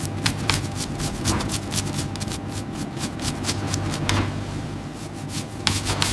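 Heavy machinery running with a steady low hum, overlaid by many irregular sharp clicks and knocks.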